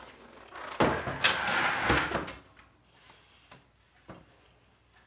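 Plastic keyboard case and circuit-board parts being handled during disassembly: a rough scraping and knocking for about a second and a half, then a few light clicks.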